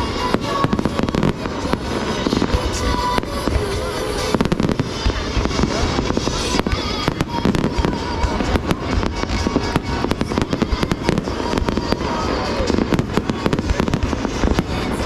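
Aerial fireworks going off in rapid succession, a continuous dense mix of bangs and crackling, with music playing underneath.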